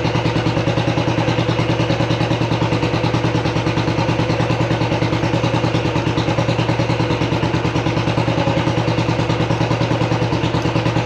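Royal Enfield BS6 single-cylinder engine idling steadily with an even, rapid beat.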